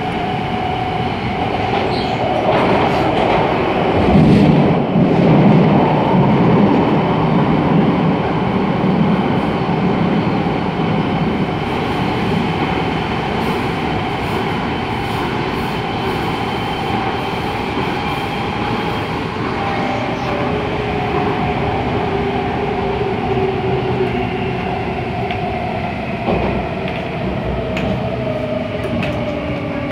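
MTR Tung Chung Line A-Train electric multiple unit running, heard on board: wheel and rail rumble with the thin whine of the traction motors. The rumble is heaviest a few seconds in, and the motor whine falls in pitch over the last ten seconds or so as the train slows.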